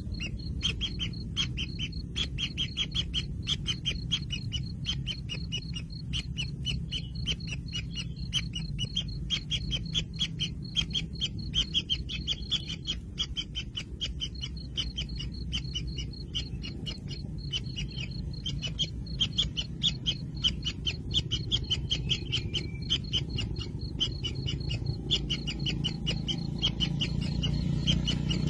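Kingfisher nestlings in their nest burrow, making a rapid, continuous ticking chatter of begging calls, with brief gaps and a steady low rumble underneath.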